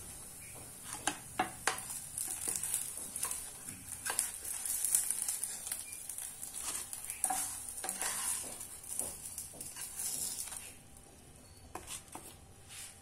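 Hara bhara kababs sizzling in shallow refined oil in a pan, with a wooden spatula scraping and knocking against the pan as they are lifted out. The sizzling dies down about ten and a half seconds in.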